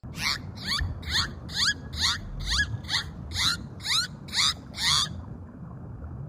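An animal calling in a run of eleven short, high chirps, each sliding down in pitch, about two a second, over a steady background hiss.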